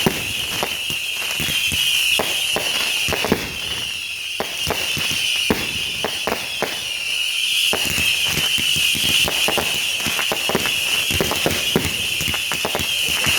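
Consumer fireworks going off in rapid succession: many irregular bangs and crackling reports packed close together, with a steady high-pitched sound running underneath.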